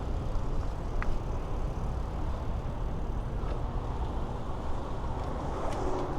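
Steady low rumble of city traffic and wind noise heard while riding a bicycle, with a brief high chirp about a second in.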